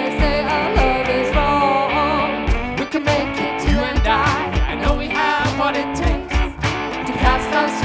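Live band music: guitar and a bending melody line over a steady bass-drum beat about twice a second.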